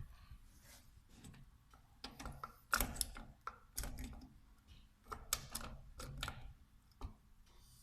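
Irregular clusters of light clicks and knocks from hand work on small metal parts and tools at a workbench, during the strip-down or reassembly of a Bosch VE diesel injection pump.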